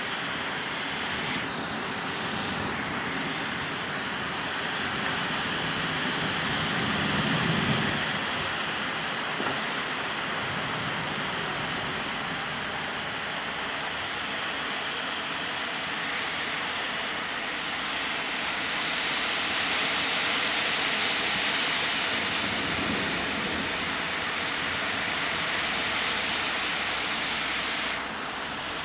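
Heavy downpour: a steady, dense hiss of rain, with squally wind. The noise swells in strength twice, about a quarter of the way in and again past the middle.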